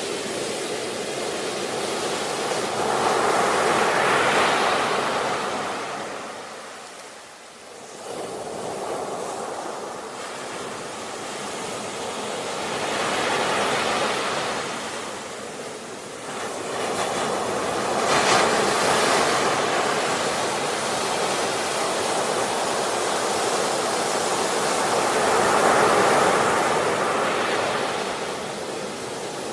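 Ocean waves breaking and washing ashore in slow surges: about four swells, each rising to a rush of surf and falling away, with a short lull about seven seconds in.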